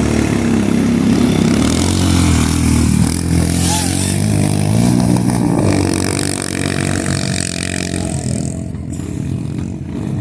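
Motorcycle engine running, its revs rising and falling.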